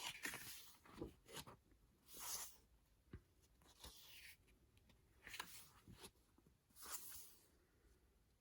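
Faint rustling and sliding of paper and card, in short swishes every second or so with a few light taps, as photocards and an album's printed inserts are handled.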